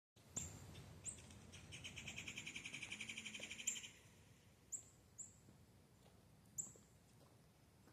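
Birds calling: short, high chirps several times, with a fast, even trill from about two seconds in that stops near four seconds.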